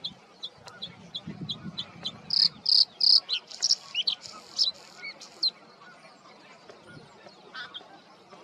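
Bluethroat song: a run of short, high repeated notes, about three a second, breaking about two seconds in into a loud, fast, varied phrase of buzzy and ringing notes, then fainter scattered notes near the end.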